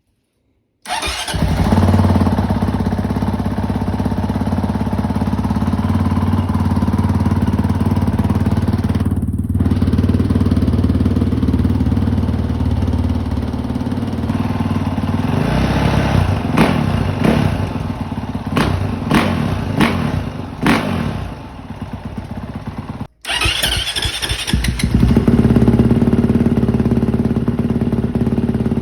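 Honda CRF450R single-cylinder four-stroke dirt bike engine idling, then revved in half a dozen quick throttle blips. After a sudden cut about 23 seconds in, it idles again with a different exhaust note, as the bike's stock exhaust is compared with a Pro Circuit T6 system.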